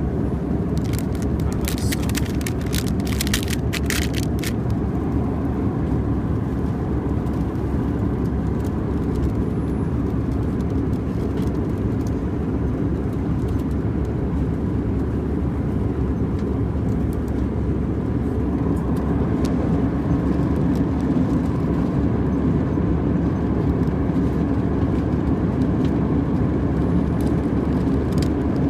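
Steady cabin noise of an Airbus A320-211 in flight, a dense low rush of airflow and engine noise heard from an economy window seat. A few light clicks and rustles come in the first few seconds.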